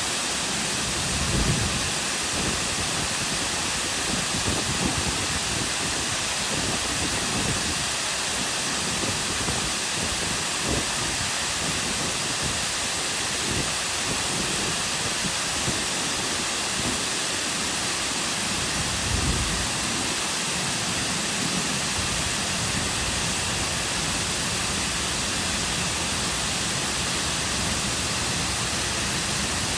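Cascading waterfall: a steady, even rush of falling water, with brief low rumbles about a second in and again about two-thirds of the way through.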